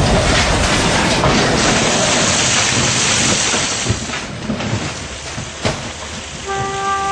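A train of runaway loaded quarry trucks crashing into a small engine: a dense rumbling, clattering crash for about four seconds that then dies away into a few separate knocks of falling pieces. A few held musical notes come in near the end.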